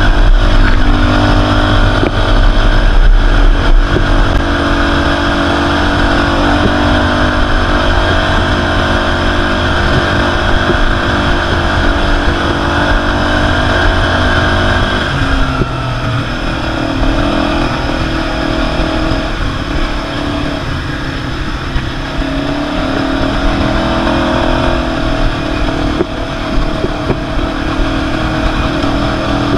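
Quad bike (ATV) engine running while riding, its note changing about halfway through.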